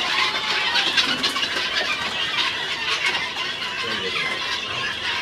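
A flock of helmeted guineafowl calling, many rapid overlapping calls at once.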